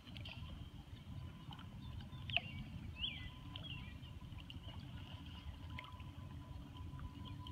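Small birds giving short chirps now and then, the sharpest one a little over two seconds in, over a steady low rumble of outdoor background noise.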